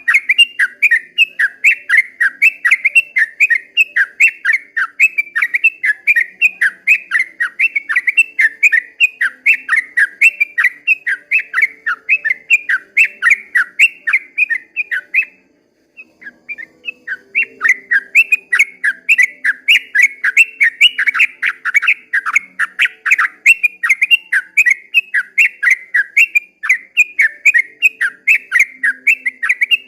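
Yellow-vented bulbul (trucukan) singing a long, fast run of short whistled notes, about three a second. The song breaks off for about a second halfway through, then carries on.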